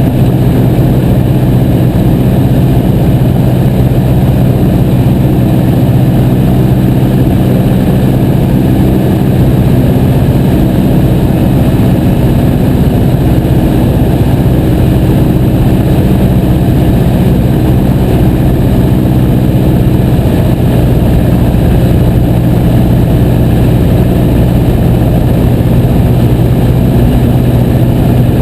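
Piper J3 Cub's Continental A-65 four-cylinder engine and propeller running steadily, loud and close, with small shifts in pitch but no large change in power.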